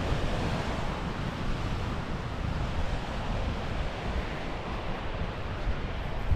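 Steady rush of water from a waterfall, with a low, uneven rumble of wind on the microphone.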